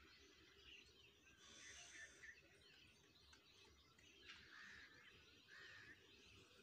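Near silence with a few faint, short bird chirps now and then over a low background rumble.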